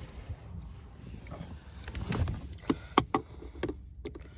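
Hand work on car interior trim with a screwdriver: a handful of sharp clicks and light knocks of plastic and tool, bunched in the second half, over a low rumble.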